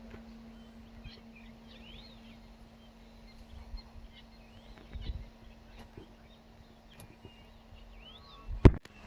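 Birds chirping, short rising-and-falling calls every second or so, over a steady low hum. A single sharp, loud knock comes near the end.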